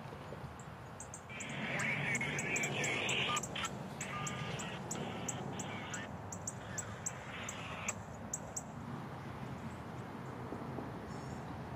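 Birds chirping: a steady run of short, high chirps, two or three a second, with busier calling in the first several seconds, over a low steady background hum.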